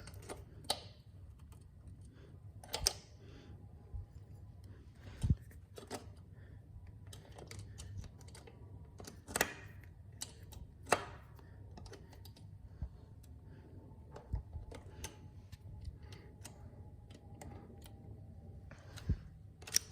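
Scattered small clicks and taps of pliers working a cotter pin, splitting and bending its legs where it passes through a motorcycle's rear axle nut. The clicks come irregularly, a few louder ones among many faint ones.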